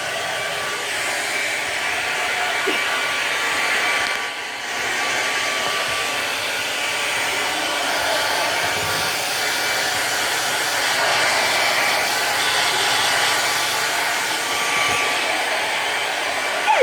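Handheld hair dryer running steadily: a loud rush of air with a faint steady motor whine. Its level dips briefly about four and a half seconds in.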